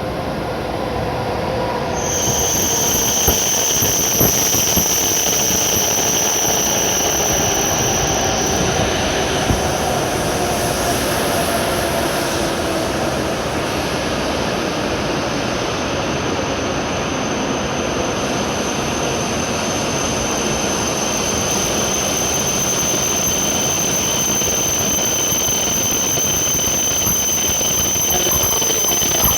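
E7 series Shinkansen train pulling slowly into the platform. A high, steady brake squeal begins about two seconds in, over a lower whine that falls in pitch as the train slows.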